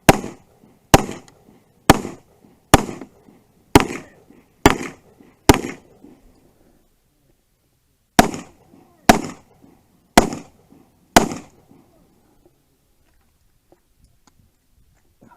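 Glock 17 9mm pistol firing single aimed shots about a second apart: seven, then a pause of a couple of seconds, then four more.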